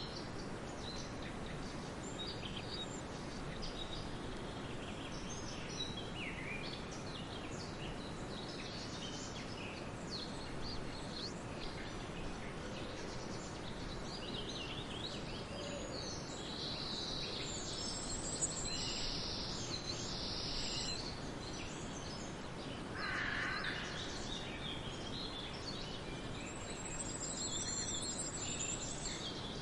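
Steady background noise with many short bird chirps and calls scattered throughout. A louder, lower call lasting about a second comes about 23 seconds in.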